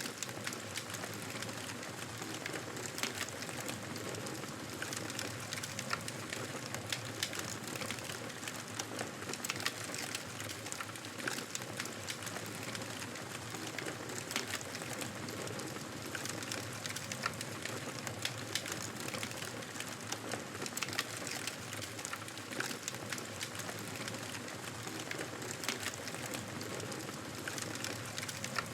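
Wood fire crackling in a fireplace: a steady soft hiss with many small irregular pops and snaps.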